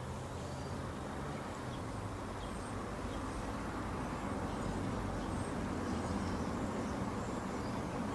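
Steady low background rumble with a hum, slowly growing louder, with a few faint high chirps now and then.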